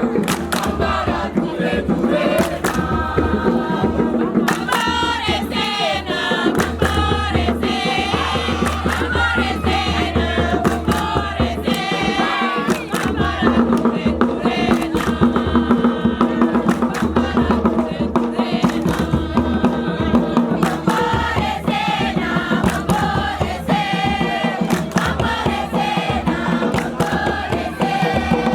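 A group of voices singing a chant together over a steady percussive beat.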